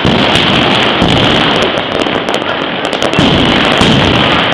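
Dense New Year's barrage of fireworks and firecrackers going off all around, a continuous crackle of rapid bangs with heavier booms a few times.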